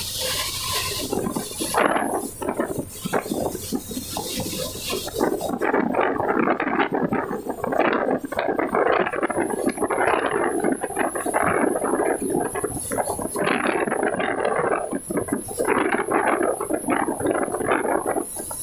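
Heavy rain with rushing, splashing water, an uneven crackling wash of sound. A thin high steady whine comes in about nine seconds in.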